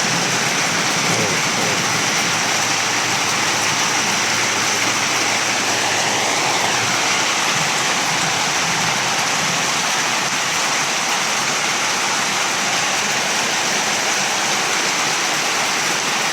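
Heavy rain falling steadily: a dense, even hiss of downpour with water running.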